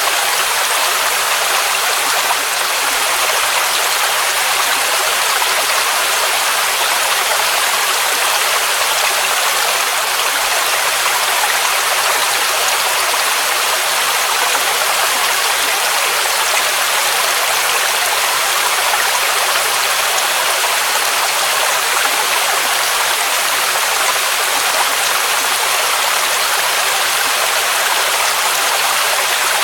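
Waterfall rushing: a steady, unbroken hiss of falling water, its energy in the middle and high range with little deep rumble.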